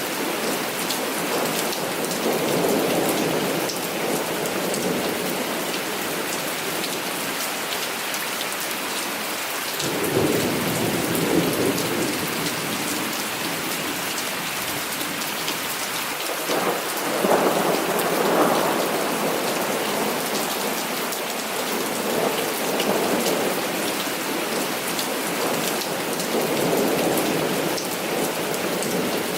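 Heavy rain falling steadily, with many fine drop patters, under rolling thunder. The thunder swells about ten seconds in, and again more loudly a little past halfway.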